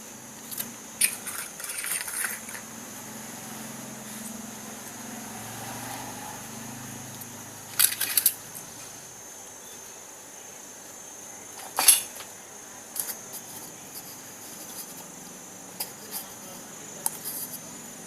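Small hard parts of a model Stirling engine's piston assembly clicking and clinking as they are handled and set down: a quick cluster of clinks early on, two sharper knocks in the middle, the loudest about twelve seconds in, and a few lighter taps near the end.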